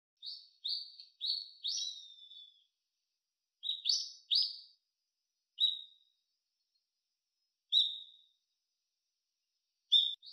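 Small bird chirping: short, high chirps, a quick run of four at the start, then scattered single chirps and pairs every second or two.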